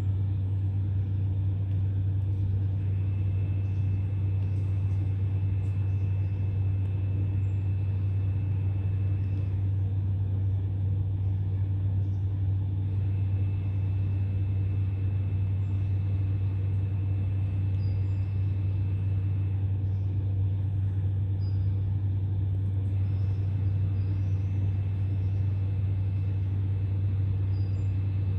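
Steady low mechanical drone, like an idling engine or running machinery, with a thin high whine that comes and goes in stretches of several seconds. A few faint high chirps sound near the end.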